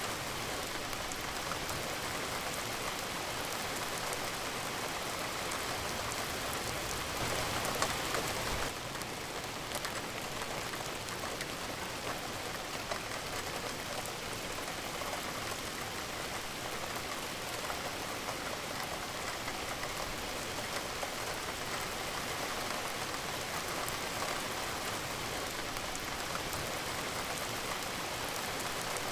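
Steady rain falling, a dense patter of raindrops on a surface. About eight seconds in it swells briefly and then drops back suddenly to a slightly softer, even fall.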